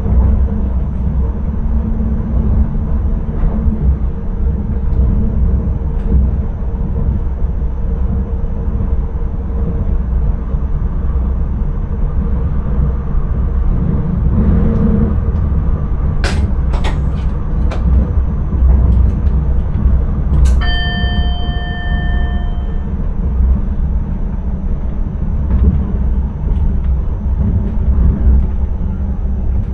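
Steady low rumble of a train running on the line, heard from inside the driver's cab, with a few sharp clicks about two-thirds of the way in and then a single ding that rings for about two seconds.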